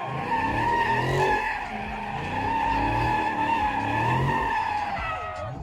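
A car doing a burnout or donut, its tires squealing steadily while the engine revs in pulses about once a second. The squeal cuts off at the end.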